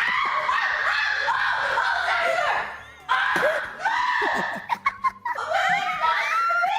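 A young woman screaming and laughing in long, high-pitched shrieks, broken by short pauses about three and five seconds in, with rising squeals near the end.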